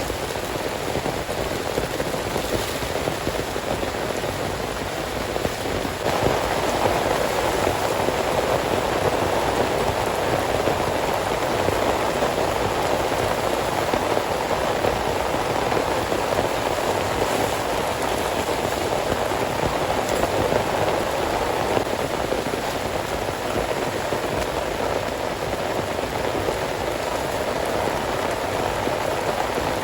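Heavy rain falling steadily and drumming on a surface, a little louder from about six seconds in.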